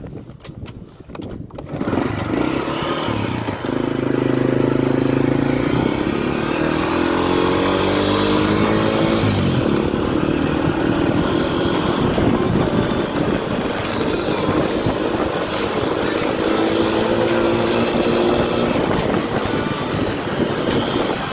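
Honda Dream 100's single-cylinder four-stroke engine pulling away from about two seconds in and running under load. Its pitch climbs, drops back sharply about nine seconds in at an upshift, then holds a steadier note as the bike rides on.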